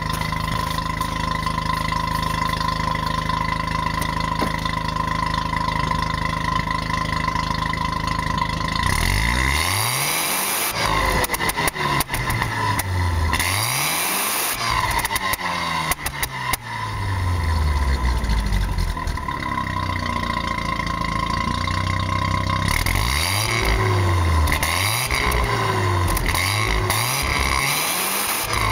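1983 Mazda RX-7's twin-rotor rotary engine exhaust through a new 2.25-inch Napa Soundmaster muffler, idling steadily at first. About a third of the way in it is revved in a series of throttle blips that rise and fall, settles back toward idle, then is blipped again several times near the end.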